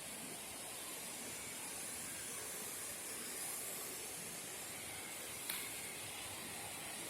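Steady rush of falling water from a waterfall, an even hiss with no let-up. A single short click about five and a half seconds in.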